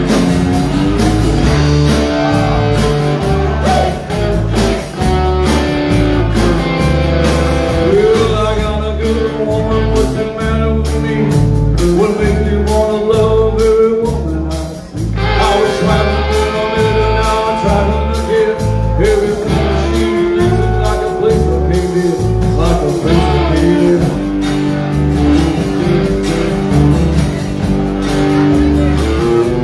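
Live country band playing a blues number: guitars over bass and drums with a steady beat.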